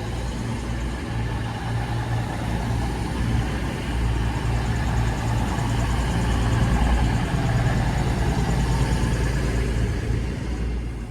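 Diesel multiple unit's engines running at the platform: a steady low hum that swells a little in the middle and eases off near the end.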